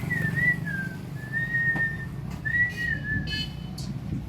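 A person whistling a wandering tune: one clear note gliding up and down in short phrases with brief breaks, over a steady low hum.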